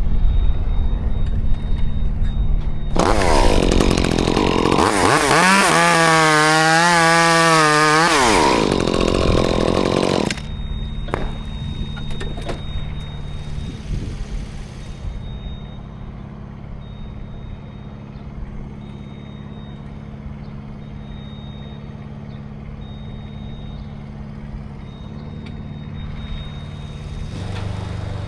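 A chainsaw run at high revs for about seven seconds, its pitch wavering up and down, then cutting off abruptly. A steady low engine drone runs underneath.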